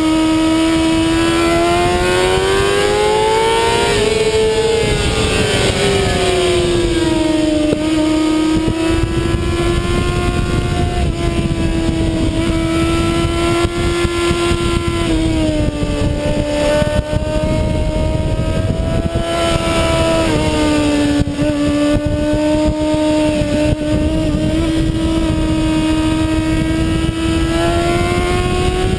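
Kawasaki ZX-6R sport bike's inline-four engine running at high revs on track, its pitch climbing and falling several times with throttle and gear changes, over a heavy rush of wind noise.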